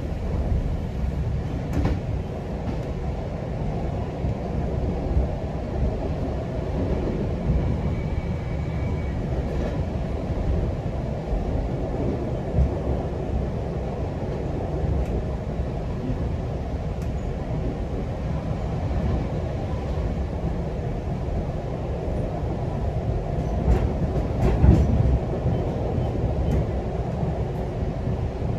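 GO Transit commuter train running along the track: a steady rumble, with a few sharp clicks and knocks about three-quarters of the way through, the loudest moment.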